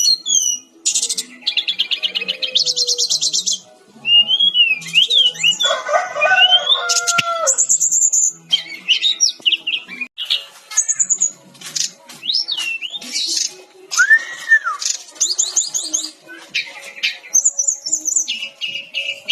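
Fulvous-chested jungle flycatcher (sikatan-rimba dada-coklat) singing continuously in a loud, varied song. Rapid trills alternate with high whistled slurs and short chattering phrases, and a lower, fuller call comes about six seconds in.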